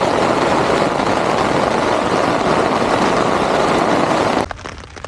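Hailstorm: a loud, dense, steady roar of hail and wind that cuts off suddenly about four and a half seconds in, giving way to quieter scattered drops and ticks of rain.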